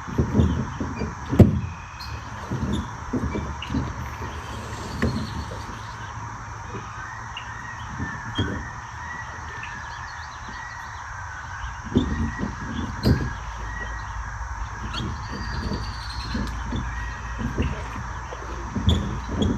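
Birds chirping and calling outdoors, wavering calls that come and go, over irregular low thumps on the microphone.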